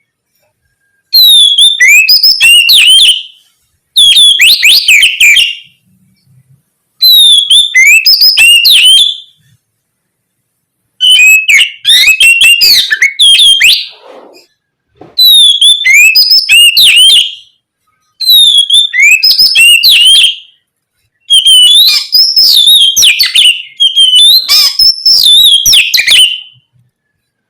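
Oriental magpie-robin (kacer) singing loud, rapid phrases of gliding whistled notes. The phrases are about two seconds long with short pauses between them, about eight in a row.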